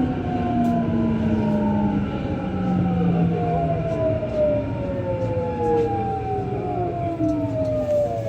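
Rubber-tyred Lyon Metro Line B train running in the tunnel, its traction motors whining in several tones that fall slowly in pitch as the train slows, over a steady rumble of the running gear.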